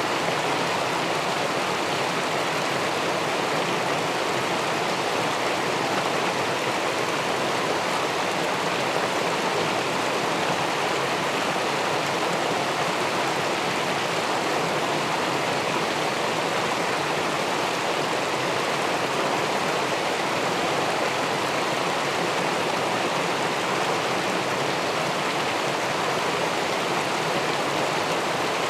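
Steady rushing of river water pouring over a weir into the pool below, heard through a camera submerged in the pool: an even, unbroken wash.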